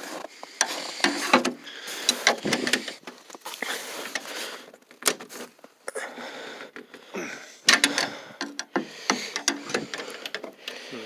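Irregular clicks, knocks and rattles of a backhoe cab door latch and handle being worked, with the door frozen shut.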